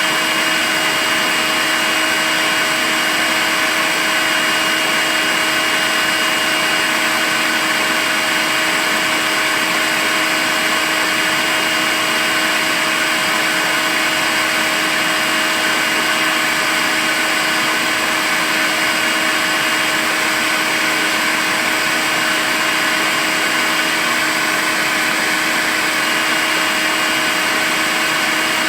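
Makita cordless vacuum cleaner running steadily: a constant airy rush with a steady low hum and a faint high whine.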